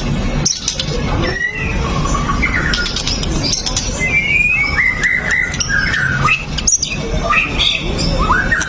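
White-rumped shama singing without pause: a varied stream of whistled, sliding phrases and quick chattering notes, over a low background rumble.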